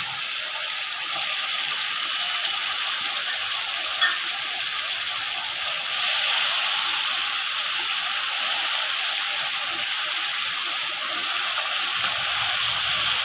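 Hot oil and masala sizzling steadily under wet chopped spinach as it goes into a pot of fried potatoes. The sizzle gets louder about six seconds in as more spinach is added, and there is a single click about four seconds in.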